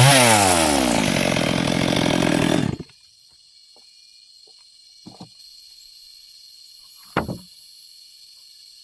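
Two-stroke chainsaw running at high revs, its pitch swinging up and back down at the start, then stopping abruptly about three seconds in. After it, a faint steady high whine and two dull knocks, about five and seven seconds in.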